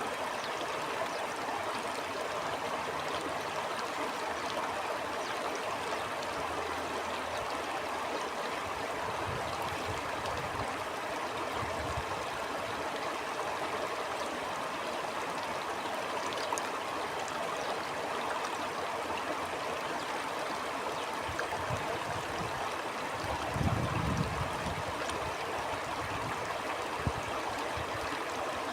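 Stream water flowing steadily over rocks, a continuous rushing and babbling, with a few soft low thumps, the strongest about 24 seconds in.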